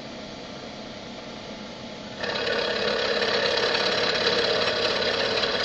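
Comet 3KVHD vertical milling machine running. About two seconds in, a loud, fast, rattling mechanical noise starts abruptly and keeps going, typical of the mill working on the wheel.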